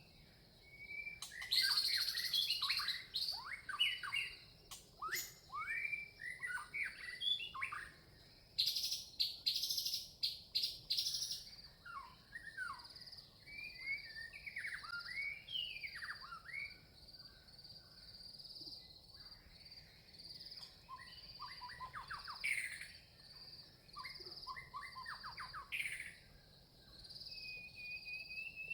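Red-vented bulbuls calling, a busy run of short chirps that sweep down in pitch, with a few louder, harsher bursts near the start and about nine seconds in. A steady high buzz runs underneath.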